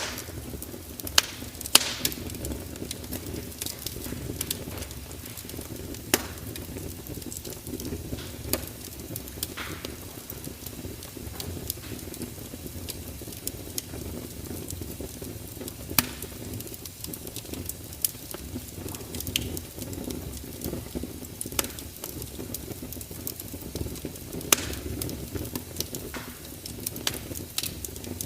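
Fire crackling: irregular sharp pops and snaps, a few much louder than the rest, over a steady low rush of burning flames.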